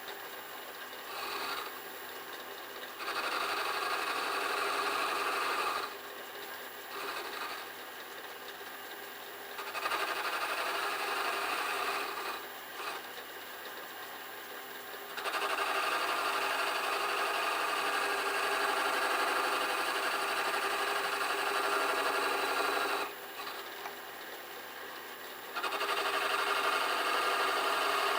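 Metal lathe running while a home-made ball-turning attachment cuts a steel workpiece. The scraping cutting noise comes in several long stretches, the longest about eight seconds, with short quieter lulls between.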